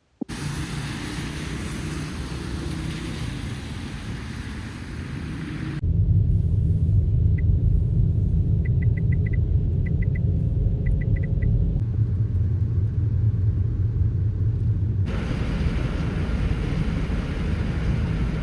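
Steady hiss, cut about six seconds in to a heavy low rumble with a few quick runs of faint high clicks; the hiss comes back near the end.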